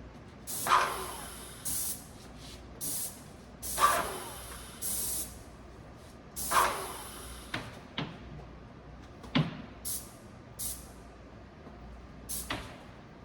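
Repeated short hissing bursts, some lasting about half a second. The larger ones come roughly every three seconds, with smaller sharp ones in between.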